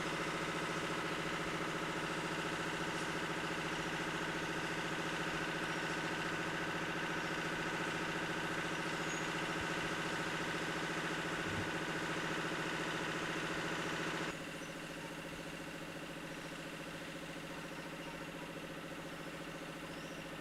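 An engine running steadily at one constant pitch, with an abrupt drop in loudness about two-thirds of the way through.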